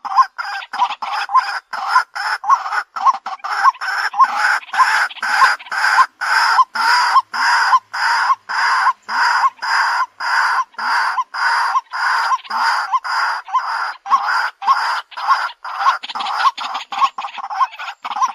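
White-breasted waterhen calling: short harsh notes repeated rapidly and monotonously, about two to three a second, without a break.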